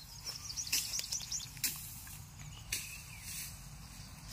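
Outdoor field sound: a small bird chirps in quick high notes during the first second and a half, with a few soft crunches and rustles of dry grass, the clearest about a second and a half and nearly three seconds in.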